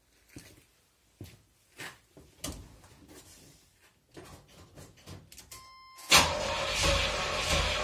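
A few scattered knocks and clicks, then about six seconds in a V8 engine fires on a cold start and settles into a steady fast idle.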